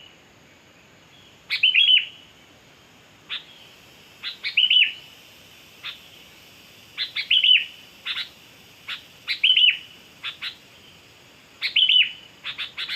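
Sooty-headed bulbul (kutilang) calling in short repeated phrases: a few sharp chips, then two or three quick arched whistled notes, about every two and a half seconds, with single chips in between.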